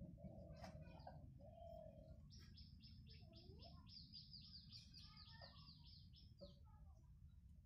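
Faint birdsong over a low background rumble. A couple of lower calls come first, then, a little after two seconds in, a fast run of high chirps at about six a second lasting some two and a half seconds.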